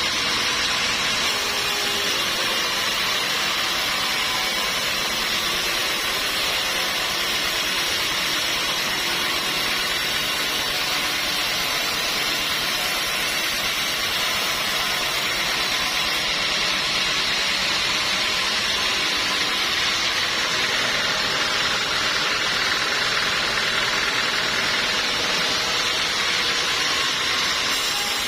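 Sawmill machinery running steadily, an even mechanical noise with no breaks or separate strokes.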